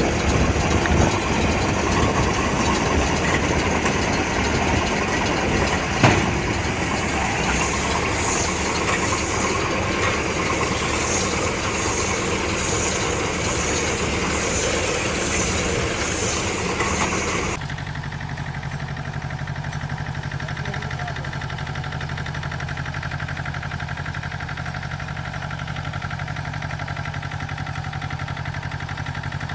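Hay baler machinery working with a tractor engine running, and a sharp knock about 6 seconds in. About 17 seconds in the sound changes abruptly to a quieter, steady engine running.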